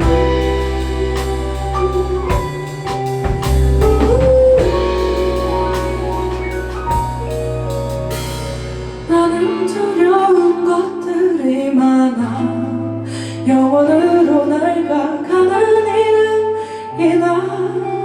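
Live pop-ballad band music: drums, bass, guitar and piano play together, then about nine seconds in the bass and drums drop away, leaving a bending, wavering melody over sparse chords.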